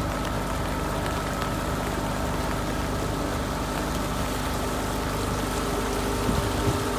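An engine running steadily with an even hum, with a couple of soft knocks near the end.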